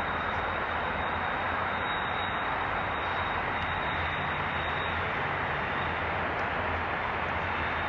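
Trains passing some way off, a FrontRunner commuter train and a double-stack container freight train, make a steady, even noise. A thin, steady high whine runs over it.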